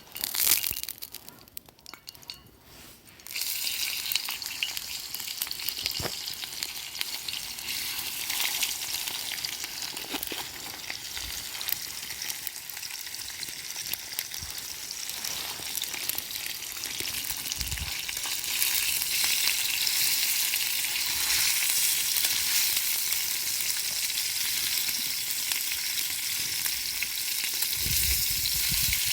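Ingredients for pork miso soup frying in oil in a pot over a campfire: a dense, steady sizzle that gets louder about eighteen seconds in.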